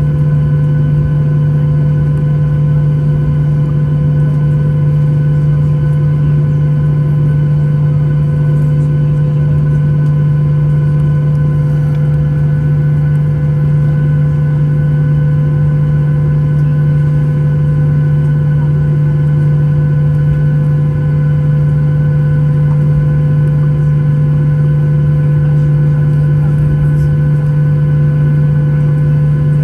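Steady drone inside a Boeing 737-800's cabin, its CFM56 jet engines at idle before the takeoff run: a strong low hum with a few fixed higher tones, unchanging throughout.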